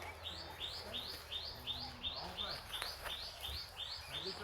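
A bird calling one short, rising chirp over and over, about three times a second in an even rhythm.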